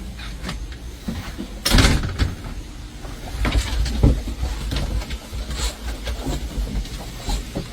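Skateboard wheels rolling over hard ground with a steady low rumble, broken by clacks and knocks from the board, the loudest a sharp one about two seconds in.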